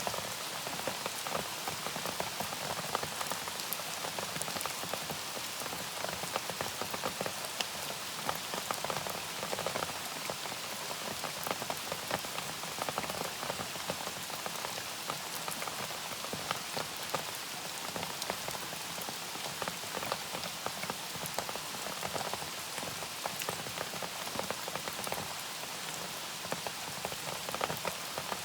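Steady rain falling, many small drop taps over an even hiss, with no change in strength.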